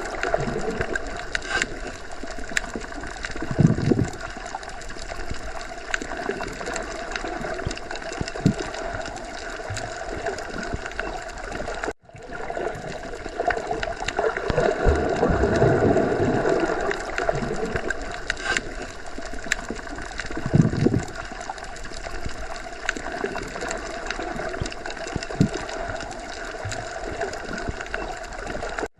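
Underwater ocean ambience: a steady muffled wash of moving water with slow gurgling swells and a few faint clicks. The sound cuts out for an instant about twelve seconds in, then resumes.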